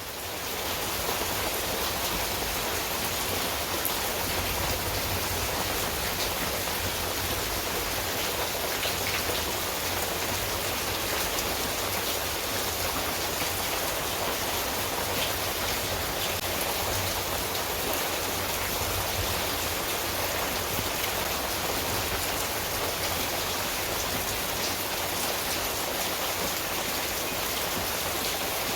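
Steady heavy rain falling, with a few separate drop ticks standing out.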